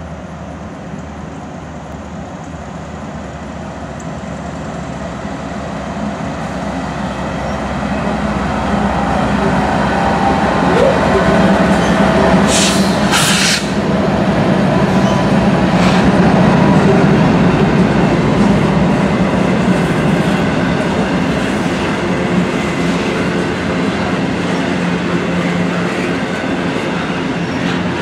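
Norfolk Southern GE ES44AC diesel locomotive approaching and passing at the head of an intermodal freight train. Its engine drone grows steadily louder over the first dozen seconds and peaks as it goes by. Then the double-stack container well cars rumble past on the rails.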